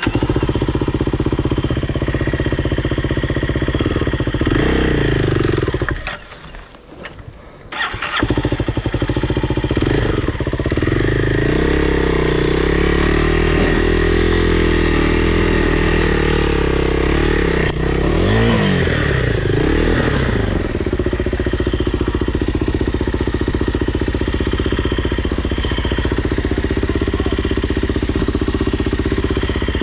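Dirt bike engine running and revving. It drops out briefly about six seconds in and comes back about two seconds later. Its pitch rises and holds, dips and climbs again around eighteen to twenty seconds, then settles into steadier running.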